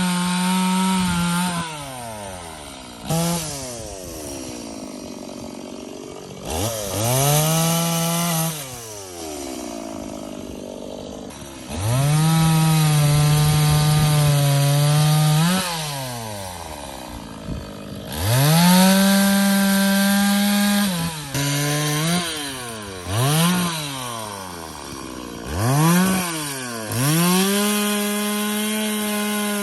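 Two-stroke chainsaw cutting firewood. It revs up to full speed and holds for one to three seconds at a time, dropping back toward idle in between, about five times, with a few quick blips of the throttle near the end.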